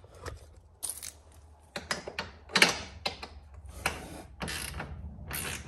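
Ratchet wrench clicking in short bursts, about every half second to a second, as a bolt is tightened down into wood.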